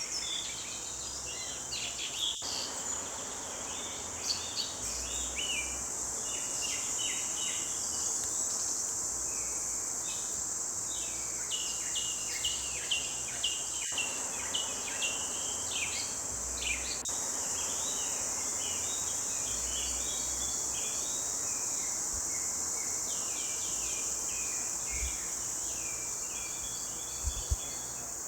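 Forest birds chirping and trilling in many short, overlapping calls over a steady, high-pitched insect chorus.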